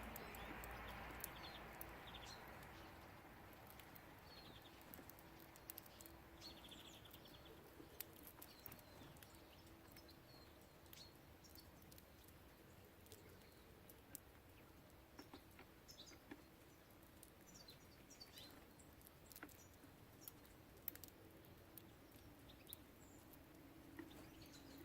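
Faint, scattered chirps and short calls of small songbirds, with sharp ticks here and there. A louder background noise fades away over the first few seconds.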